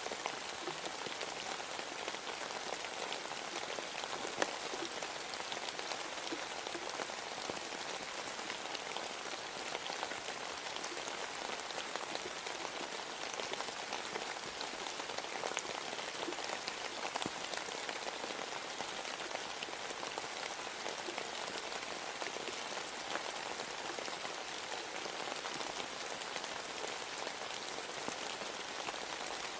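Steady rain falling: an even hiss of countless drops, with many small individual drop taps and one slightly louder tap about four seconds in.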